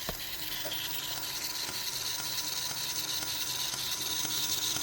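Home-built 2x42 belt grinder running in reverse: a steady hiss of the sanding belt over its wheels with a faint motor hum, growing slowly louder.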